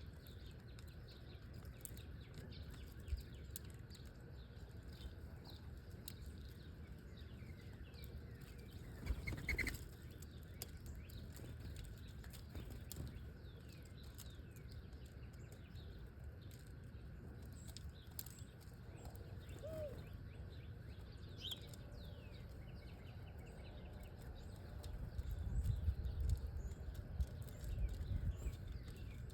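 Small birds chirping sporadically with occasional wing flutters, and one louder flutter about nine and a half seconds in. A low rumble comes in near the end.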